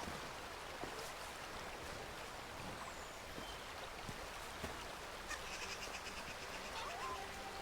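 Steady outdoor ambience with the even rush of running water, and a few faint clicks. Faint music tones come in about five seconds in.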